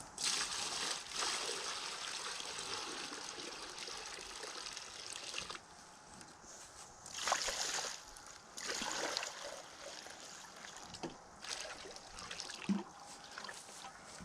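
Water being poured into a container: a steady pour for about five seconds, then several shorter splashes.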